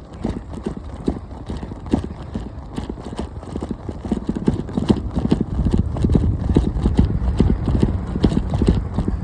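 Bicycle rattling and knocking irregularly as it is ridden, picked up by a phone mounted on the bike, over a steady low rumble of wind and tyres.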